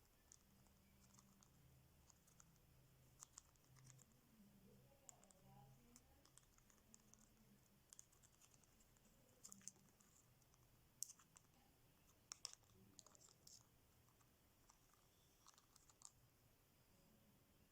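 Faint, irregular clicks of a grey parrot's beak working at cashew nuts, with a few sharper clicks about two thirds of the way through, over a faint low hum.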